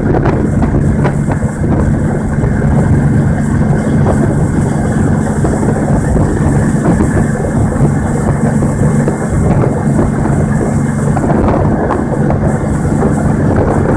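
Tour boat's engine droning steadily at cruising speed, over a rushing noise of wind and water.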